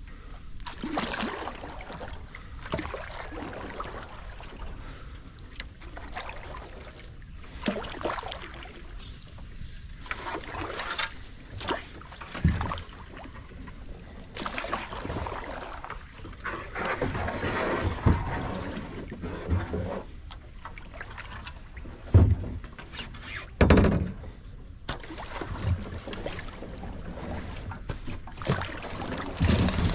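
Kayak being paddled through shallow swamp water: irregular paddle strokes swishing and splashing every few seconds, with a few dull knocks.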